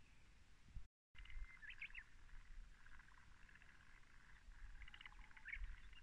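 Faint small birds chirping and trilling in short phrases, over a low rumble, with a moment of total silence about a second in.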